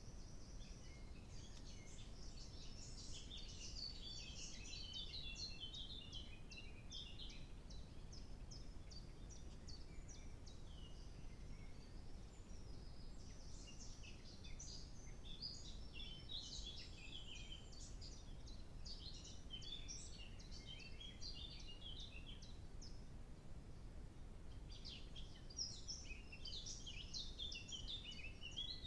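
Small songbirds singing in bouts of rapid chirps and trills, over a steady low background hiss.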